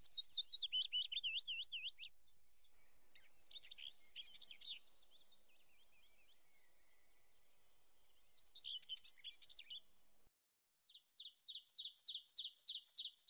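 Small birds chirping and singing in high, quick, repeated notes, in several separate bursts, ending with a fast run of the same note repeated near the end.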